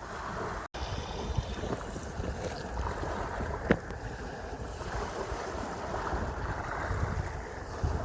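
Sea waves washing, with wind gusting on the microphone in a low, uneven rumble. The sound drops out for an instant under a second in, and there is one sharp knock about halfway through.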